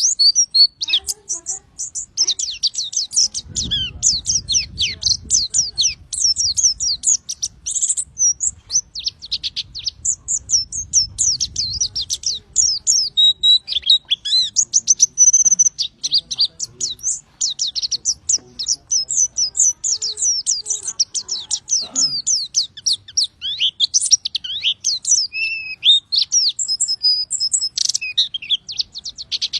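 Pleci (white-eye, Zosterops) singing a long, fast run of high chirping and trilling notes in the rapid-fire 'tembakan' style, with only brief breaks.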